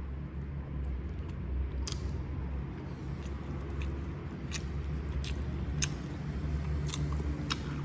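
Chewing a mouthful of soft butterscotch bread: wet mouth clicks and smacks, scattered about once a second, over a steady low hum.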